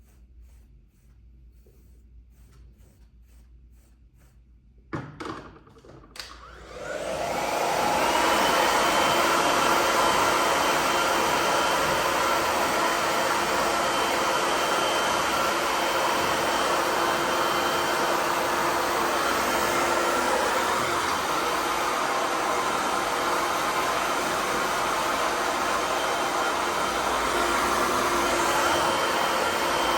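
Faint rustling, two sharp clicks, then a hair dryer switches on about six seconds in. It spins up over a second or two and runs steadily at full power with a high whine over its rushing air.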